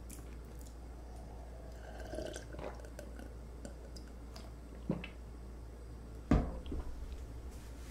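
A person quietly chewing food, with small wet mouth noises and soft clicks. A low thump comes about six seconds in and is the loudest sound.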